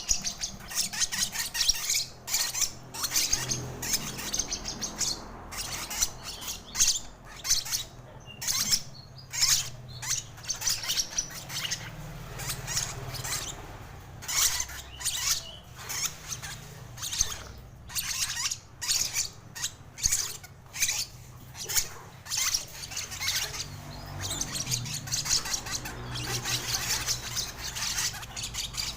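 Lovebird chirping in quick, irregular clusters of short high calls while being fed from a spoon.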